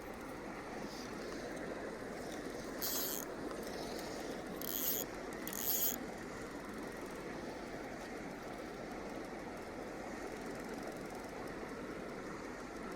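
Steady rush of a flowing river, with three short, high hissing swishes between about three and six seconds in.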